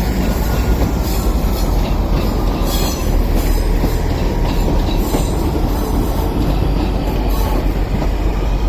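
Transport for Wales diesel multiple unit, a Class 158 coupled to a Class 153, running past: a loud steady rumble of wheels on the rails, with a few sharp metallic clicks and squeals scattered through.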